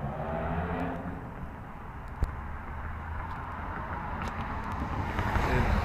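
Aprilia SXV 450 V-twin motorcycle engine running through a custom 2-into-1 stainless steel exhaust, fading away at first and then getting louder again near the end as the bike comes back. There is a single sharp knock about two seconds in.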